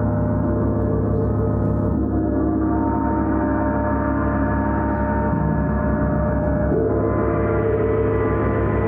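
A gong played in a sustained wash of many overlapping ringing tones, with a steady wobble in the low notes. It swells afresh about two seconds in and again about seven seconds in.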